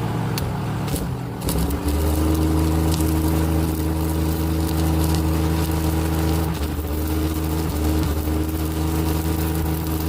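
Engine-driven welder running steadily under load, its engine picking up about a second and a half in, with the crackling hiss of arc welding over it as a broken mower deck is welded back together.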